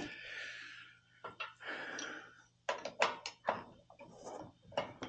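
Clinks and knocks of tools and metal oil-burner parts being handled, in a quick irregular string, over a faint steady low hum, with a brief hiss at the start.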